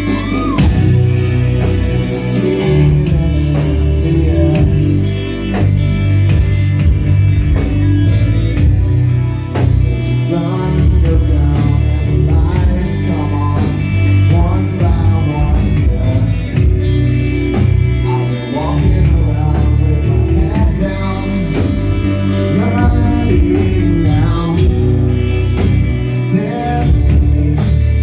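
A live rock band playing loudly: electric guitar, heavy bass and drums, with a voice singing over them.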